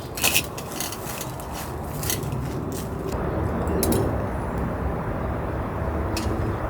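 Light clinks and scrapes of cooking utensils and dishes, several near the start and single ones later, over a steady low rumble.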